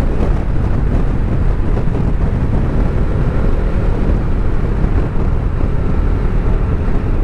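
Steady wind buffeting the microphone of a motorcycle on the move, with the Bajaj Dominar 400's engine running underneath.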